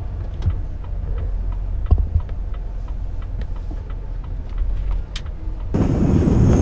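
Low, steady rumble of a truck's diesel engine heard inside the cab, with scattered clicks and knocks. Near the end a louder, even rushing noise sets in suddenly and continues.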